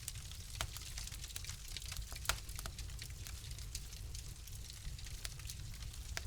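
Wood fire crackling in a fireplace: scattered sharp pops and snaps at irregular intervals, the loudest a little over two seconds in, over a steady low rumble.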